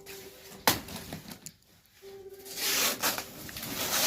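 Banana leaves rustling and rubbing as they are handled, with a sharp click a little under a second in and a louder stretch of crinkling rustle in the second half.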